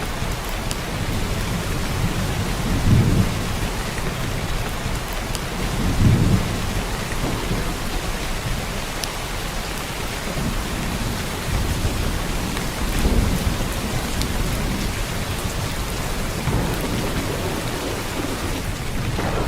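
Heavy downpour of rain, a steady hiss. Brief low rumbles swell up about three seconds in, again at six seconds, and near the middle.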